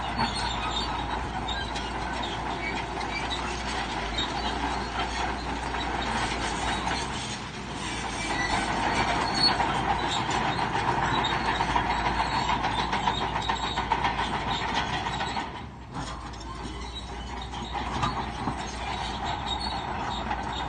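Crawler bulldozer working, its diesel running under load while the steel tracks clank and squeal. It eases off briefly twice, about seven and sixteen seconds in.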